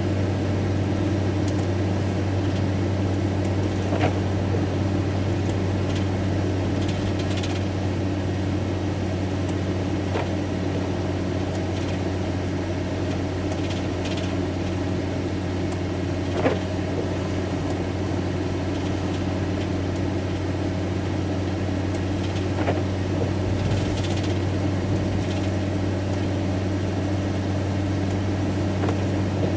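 Van driving at motorway speed on a wet road, heard inside the cab: a steady low engine and road drone with a few faint ticks.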